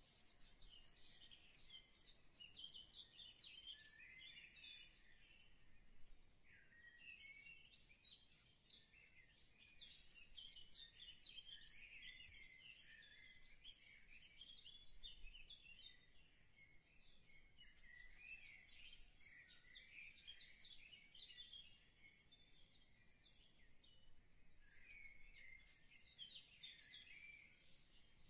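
Faint birdsong: many small birds chirping and twittering without pause.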